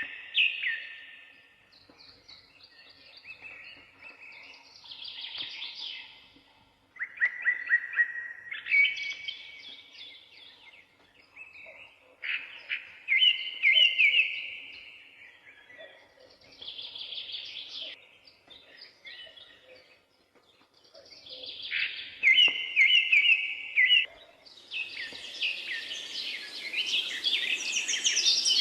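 Songbirds singing a series of separate chirping, trilled phrases, each a second or two long, with short pauses between them. Near the end a steady hiss rises under denser, higher calls.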